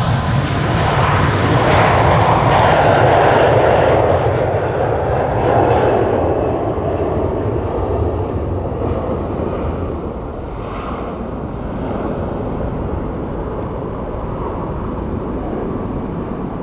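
Jet engines of a large airliner passing close by, a loud rushing roar that peaks about three seconds in and then slowly fades away.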